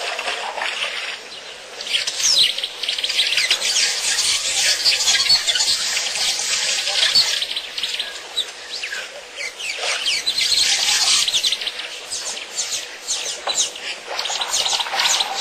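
A dense chorus of birds chirping and chattering, fuller and louder from about two seconds in.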